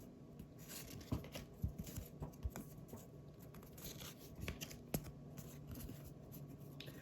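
Topps Heritage baseball cards being flipped through by hand: faint sliding and rustling of card stock, with a few light clicks and taps as the cards are moved one behind another.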